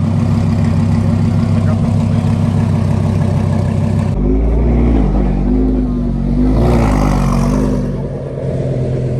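Lamborghini engine running steadily, then from about four seconds in revving up and down several times as it pulls away, loudest about seven seconds in.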